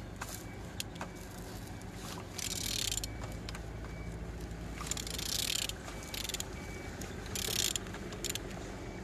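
A Z13DTH 1.3 diesel engine being turned over by hand with a wrench. Short ratcheting, scraping bursts come about every two to two and a half seconds over a steady low hum. The engine turns freely, which is a sign that it is not seized.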